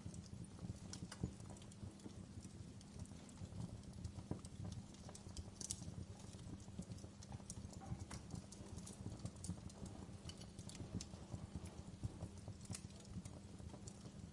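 Wood fire in a fireplace crackling, with irregular sharp pops and snaps over a low steady rumble of the burning.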